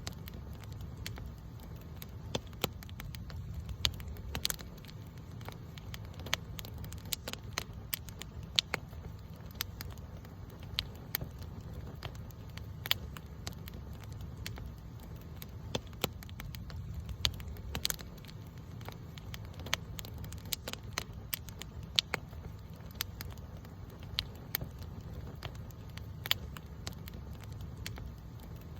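Campfire crackling: irregular sharp pops and snaps from the burning wood over a steady low rumble of the flames.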